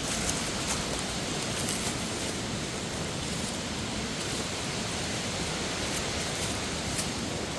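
Steady rush of a cascading mountain waterfall and water flowing over rocks.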